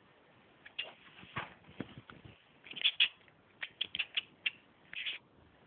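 A domestic cat making a string of short, high chirps, the chattering a cat makes while stalking prey, here a laser pointer dot. The chirps come singly at first, then in a quick cluster about three to four and a half seconds in.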